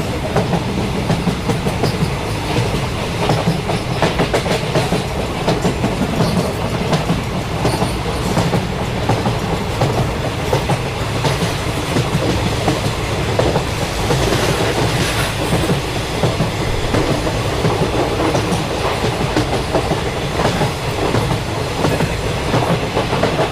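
Train wheels running on rails with a steady clickety-clack over a low rumble.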